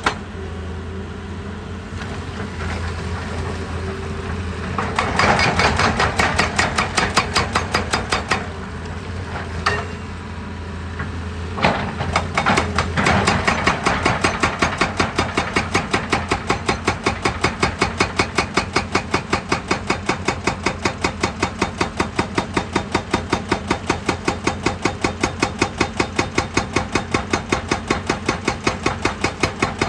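Heavy machinery at work: a diesel engine running under a steady, rapid hammering of about three to four blows a second, with a rougher, noisier stretch in the first half.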